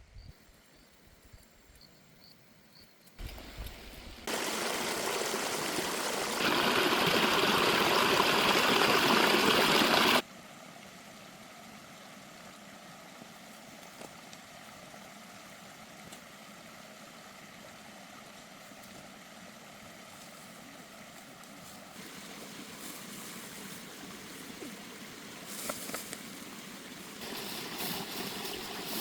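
Water running in a stream, a steady rushing with no rhythm, loudest for a few seconds in the first third and changing level abruptly several times.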